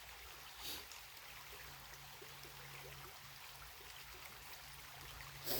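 Faint steady burble of a creek running, under a low steady hum, with two brief soft sounds, one about a second in and one near the end.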